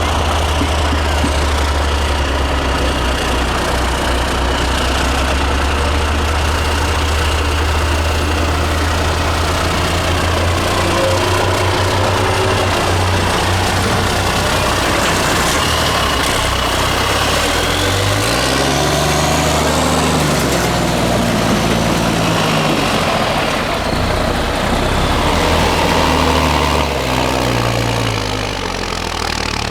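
Diesel engine of a 6x6 MAN trial truck, running at a steady low speed, then from about halfway through revving up and down repeatedly as it is worked.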